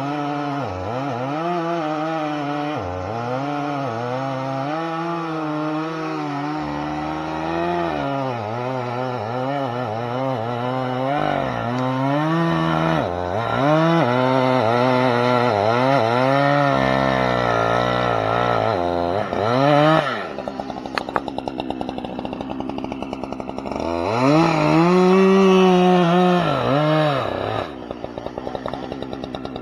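Two-stroke chainsaw revving up and down, its pitch swinging constantly. About two-thirds of the way through it drops to a ticking idle, revs up once more briefly, and settles back to idle near the end.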